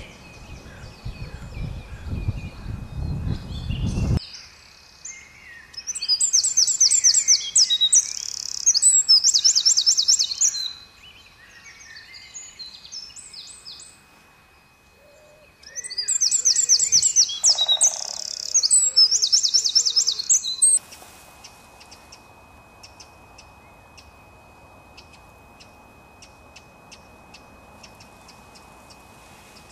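A songbird singing loudly: two runs of rapid, high, trilled notes, each about five seconds long, one starting about six seconds in and the other about sixteen seconds in.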